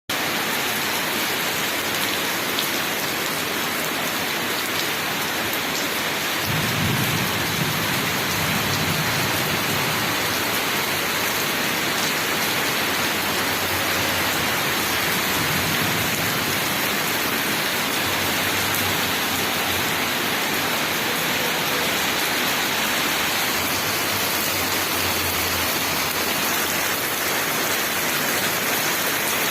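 Heavy rain falling steadily, a dense even hiss of drops on surfaces. A low rumble rises under it about six seconds in and fades over a few seconds.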